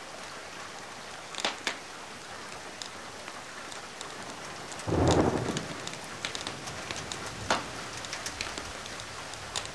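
Steady rain ambience with sharp pops and crackles from a wood fire now and then. About five seconds in comes a short low rumble, the loudest sound here.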